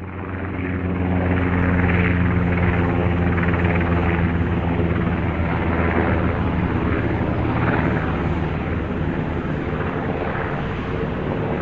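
Military aircraft engines running loud and steady, a droning noise with a strong low pitched hum; the sound eases off slightly near the end.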